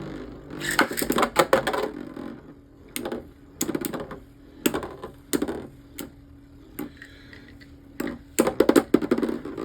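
Beyblade spinning tops battling: irregular bursts of sharp clacks and rattles as they collide, about a second apart.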